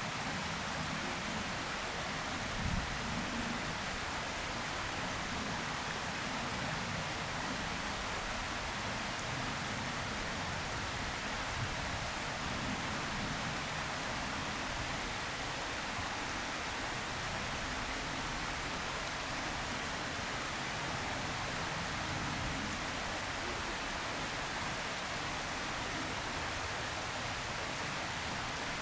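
Steady outdoor hiss with irregular low rumbling and a brief low thump about three seconds in; no distinct calls or voices.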